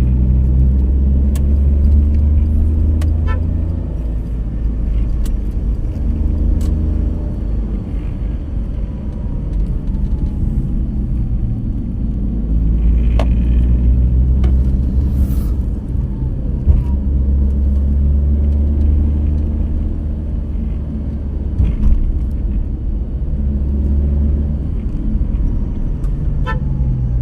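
Car engine and road noise while driving, a low rumble that swells and eases as the road winds.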